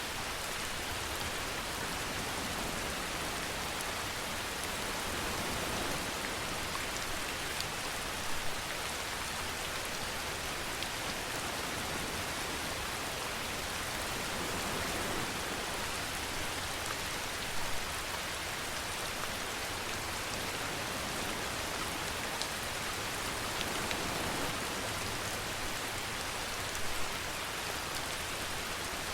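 Steady, dense rainfall hiss with the odd louder drop ticking out every several seconds.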